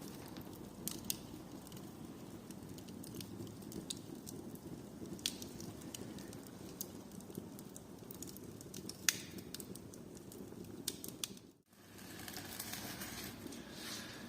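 Fire burning in a stove firebox, crackling with scattered sharp pops over a steady low rush. After a brief break about three-quarters through, a brighter hiss rises for a couple of seconds.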